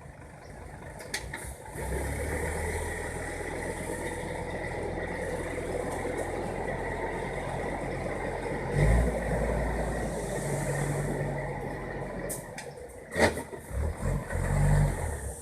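Six-wheel dump truck's diesel engine running steadily, getting louder about nine seconds in. There is a sharp clank about thirteen seconds in.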